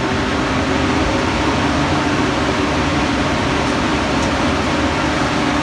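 A large commercial oven fan running steadily: a constant rush of air with a low hum under it.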